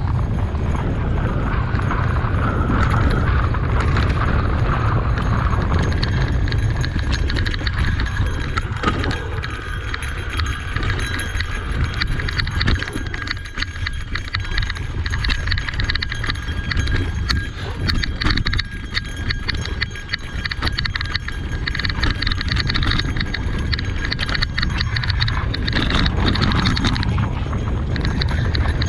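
Cube Reaction Hybrid EX 625 electric mountain bike clattering and rattling over a rough trail: a dense run of quick clicks and knocks over a steady low rumble.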